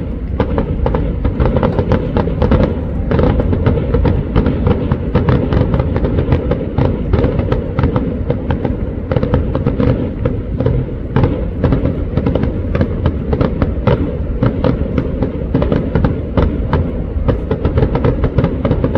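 Fireworks display going off in a rapid, dense barrage: many bangs and crackles every second over a steady low rumble.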